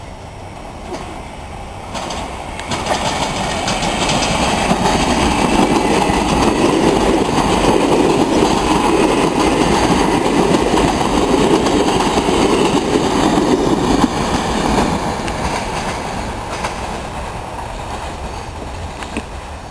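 Línea General Roca commuter train passing close by on the electrified line, its wheels clattering over the rails. The sound builds over the first few seconds, holds loud for about ten seconds, then fades away.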